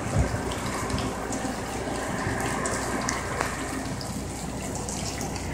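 Steady rain falling, with water running and splashing.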